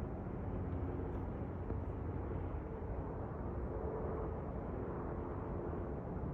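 Aircraft engine noise: a steady low rumble with faint humming tones that shift slightly in pitch.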